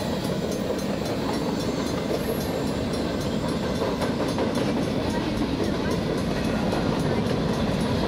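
Freight train of boxcars and covered hopper cars rolling past close by: a steady, continuous noise of steel wheels running on the rails.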